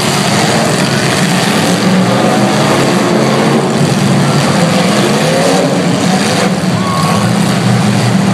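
Several demolition derby cars' engines running and revving together, loud and steady.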